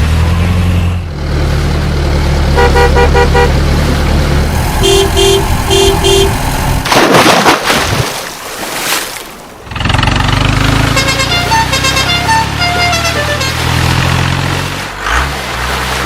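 Vehicle engine rumbling with groups of short horn toots. There is a whoosh about seven seconds in, then a run of beeping toots at changing pitches.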